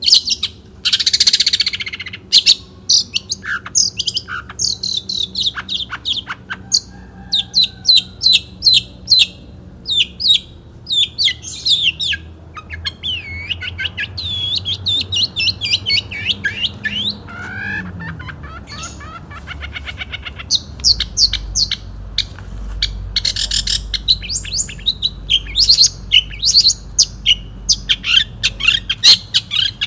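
Long-tailed shrike (cendet) singing: fast strings of short, sharp chirps and whistled notes, broken by brief pauses.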